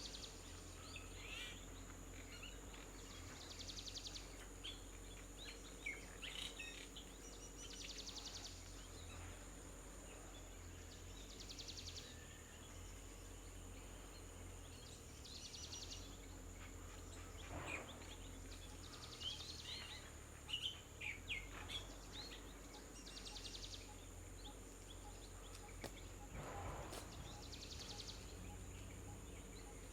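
Small birds chirping now and then, faintly, over a steady high-pitched drone and a short buzzy trill that repeats about every four seconds.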